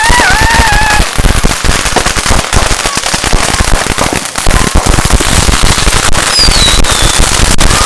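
Firecrackers going off in a dense, continuous crackle with sharp bangs, two louder bangs near the end, and a short falling whistle just before the first of them.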